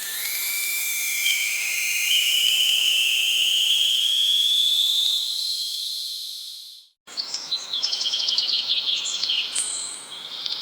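Forest ambience: a dense, high insect drone with a long, slowly rising whistle-like tone. The sound cuts out sharply, then rapid bird chirps follow.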